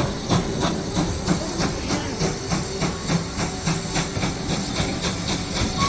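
Pannier tank steam locomotive pulling away, its exhaust chuffing in an even beat of about four a second over a steady hiss of steam.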